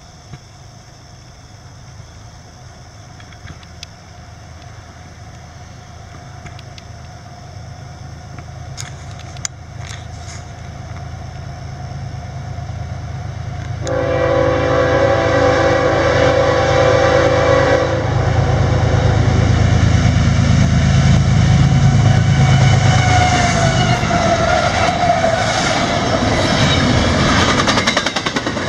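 A GE ES44AH-led freight train approaching and passing: the diesel locomotives' low rumble builds steadily, the lead locomotive sounds one long blast of its chord horn about halfway through, lasting some four seconds, and then the locomotives go by loudly and the double-stack container cars roll past with wheels clicking over the rail joints.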